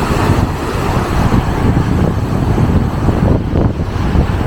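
Strong typhoon wind gusting across the microphone: a loud, uneven low rumble that swells and drops.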